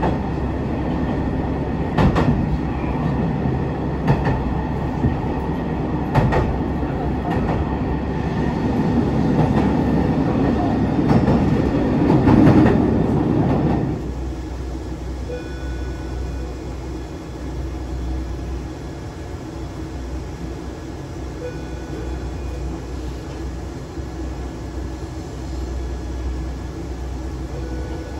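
Running noise heard from inside a KTR700 series diesel railcar, with the wheels clicking over rail joints about every two seconds. About halfway through, the sound drops to a quieter, steadier hum.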